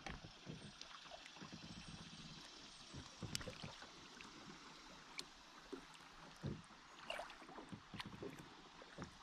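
Faint kayak paddling on a river: paddle blades dipping and splashing, with irregular small knocks and drips, over a steady rush of flowing water.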